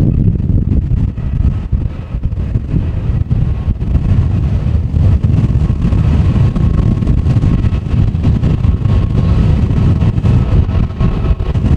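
Strong gusty wind buffeting the microphone with a heavy, fluctuating rumble, nearly drowning out a taxiing airliner's jet engines; a faint steady engine whine comes through from about halfway in.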